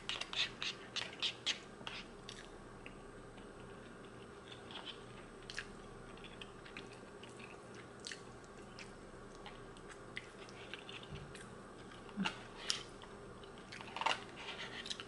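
Close-up eating sounds of a person slurping and chewing angel hair pasta: short wet mouth clicks and smacks, dense in the first two seconds, then sparse, with a few louder ones near the end.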